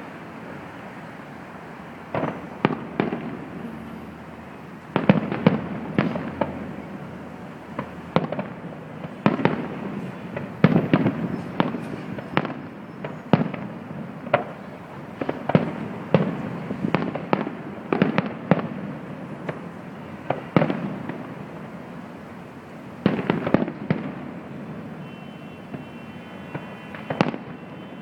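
Aerial fireworks display: a long run of sharp shell bursts, each trailing a rolling echo, coming in clusters with short lulls between, over a steady background noise.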